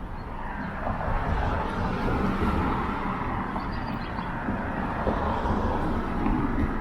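City road traffic going by, a steady rush of passing cars that swells about a second in and stays up.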